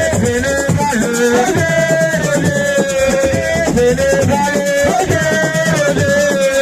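Live Senegalese assiko music: a held, gently bending melody line carried over steady drum and shaker percussion.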